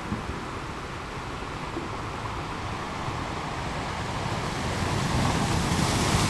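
Sea waves washing on a beach, with the surf swelling to a louder break near the end.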